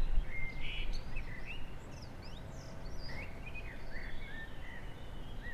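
Several songbirds chirping and whistling in short rising and falling notes over a low outdoor rumble that is loudest in the first second.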